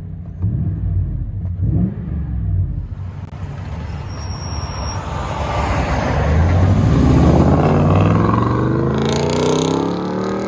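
Toyota Tundra's 5.7-litre V8 through a true dual exhaust with Flowmaster Outlaw mufflers, heard from inside the cab. Two short revs in the first couple of seconds, then the engine pulls hard with its pitch climbing steadily over the second half.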